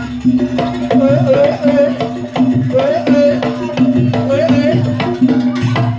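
Live jaranan Banyuwangi music: quick hand-drum (kendang) strokes over a repeated low note, with a wavering melody that slides up and down in pitch.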